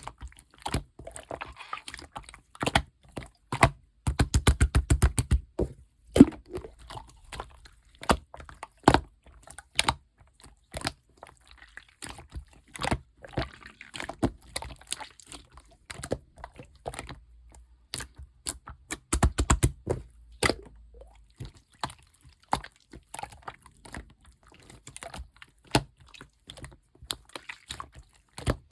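Clear slime being squished and pressed by hand, making sharp sticky clicks and small pops. There are two bursts of rapid popping, about four seconds in and again about two-thirds of the way through.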